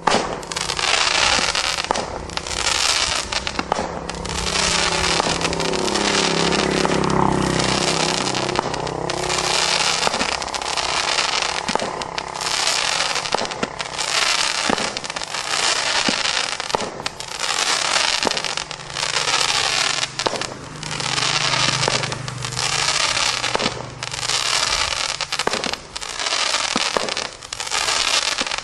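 Display firework barrages and cakes firing continuously: rapid volleys of shots and bursts over dense crackling. The volleys swell and dip about every two seconds through the second half.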